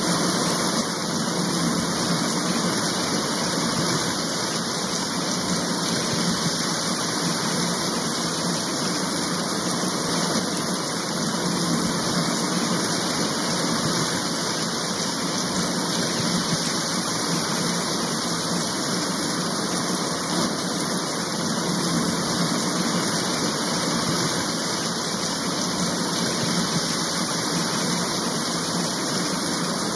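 Steady, unchanging rain sound: an even hiss with no separate drops or thunder standing out.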